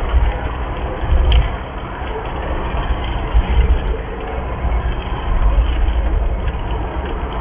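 Rain falling, with a steady hiss and wind buffeting the microphone in an uneven low rumble; a single sharp click about a second in.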